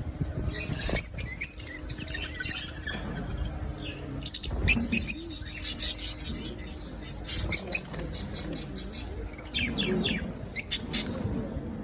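Pet lovebirds chirping: clusters of shrill, rapid high-pitched calls, coming in several bursts with short lulls between.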